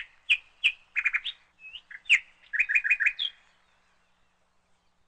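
A bird chirping: a string of short, high chirps, some in quick runs of three or four, that stops about three and a half seconds in.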